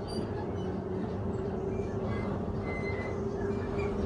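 Queensland Rail electric train heard from inside the carriage while running along a platform: a steady motor hum over low wheel-and-rail rumble.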